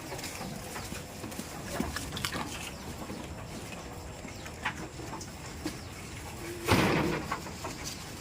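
Goats moving about, with scattered small clicks and knocks, and one short, loud burst of sound about seven seconds in.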